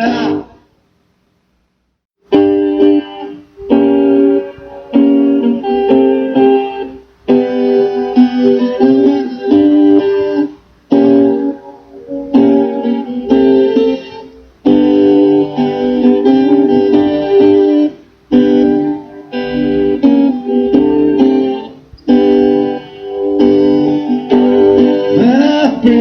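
Live band music: after a silence of about two seconds, an instrumental passage of sustained chords on guitar and keyboard, each chord held a second or two.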